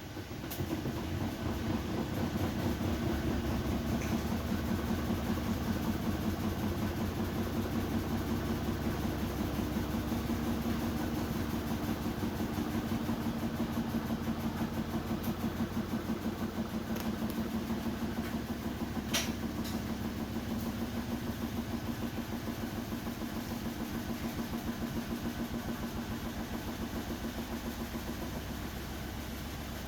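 Beko 10 kg washing machine's drum and motor starting up and running: a steady mechanical hum with a quick regular pulse that builds over the first couple of seconds, with one short click about two-thirds of the way through.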